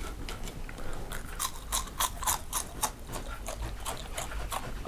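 A person chewing crunchy deep-fried French fries close to the microphone: a run of short, crisp crunches at irregular spacing.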